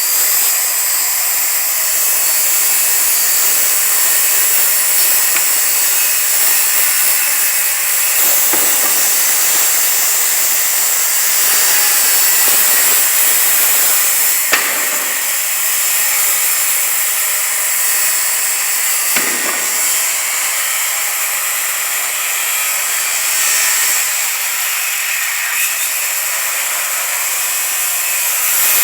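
Handheld circular saw running steadily as it rips a long cut through a sheet of plywood, a continuous high whine of the blade in the wood, with a few small knocks along the way.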